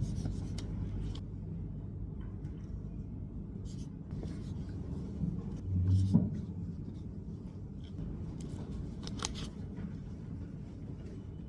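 Short, scattered scratching strokes of writing on paper over a steady low room hum, with one soft thud about six seconds in.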